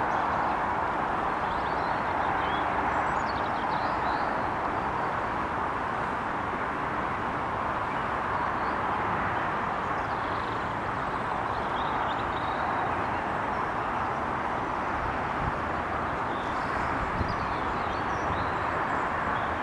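Steady rush of fast-flowing floodwater, the lake having burst its bank with a strong current.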